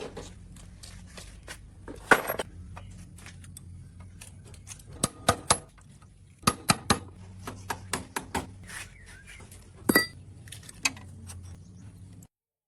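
Irregular metallic clinks and knocks, like steel tools and parts being handled, over a steady low hum. One knock about ten seconds in rings briefly. The sound cuts off abruptly shortly before the end.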